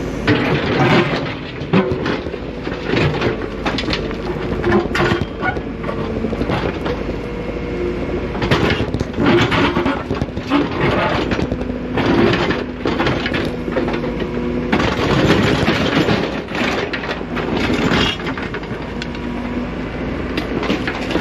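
Excavator engine running with a steady hum that shifts a little in pitch, under irregular scraping, clanking and crunching of the bucket digging through gravel and rock.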